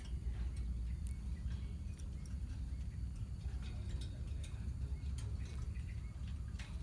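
A colony of lovebirds making short, sharp chirps and clicks, scattered irregularly, over a steady low rumble.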